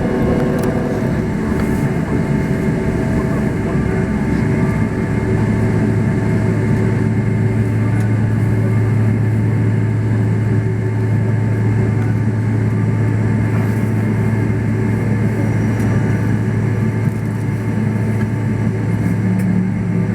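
Steady airliner cabin noise: the jet engines and airflow make a continuous rumble with several steady tones, and a low hum firms up about five seconds in.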